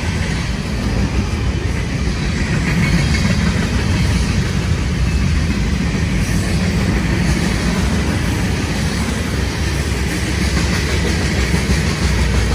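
Freight train cars rolling past at speed, a steady loud rush of steel wheels on the rails.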